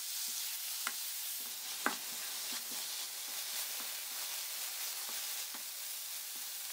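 Minced pork sizzling in hot oil in a wok, with a steady hiss. A wooden spatula stirs it, tapping and scraping against the pan now and then.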